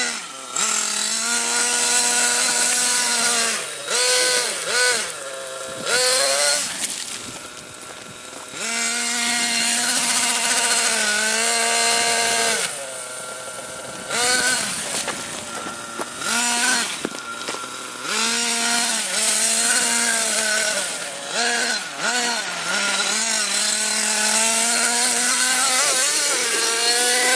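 Motor of a radio-controlled vehicle revving in repeated bursts, its buzzing pitch rising and falling with the throttle, with short drops between bursts.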